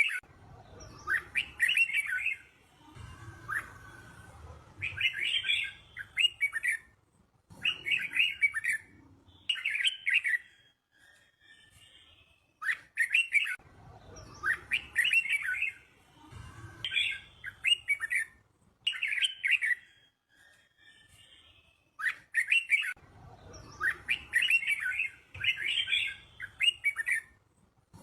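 Red-whiskered bulbul singing short, bright warbled phrases, one every second or two, with the run of phrases repeating about every ten seconds. This is a teacher-bird song used to train young bulbuls.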